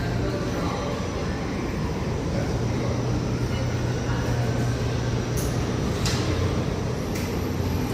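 A steady low motor hum under a constant wash of noise, with a few faint clicks.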